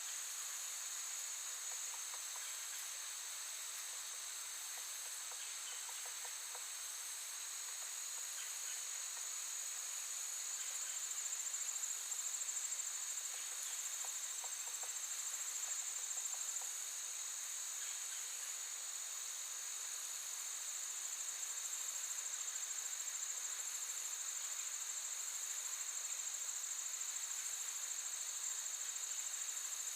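Steady, high-pitched chorus of insects trilling without a break, a little louder about a third of the way in.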